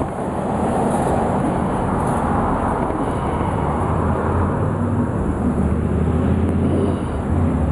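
Steady low rumble with a low hum, as of a motor vehicle running.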